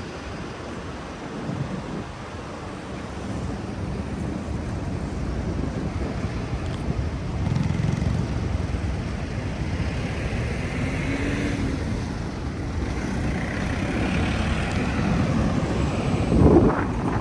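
City street traffic: a steady rumble of passing cars and buses, with a louder swell near the end as a vehicle passes.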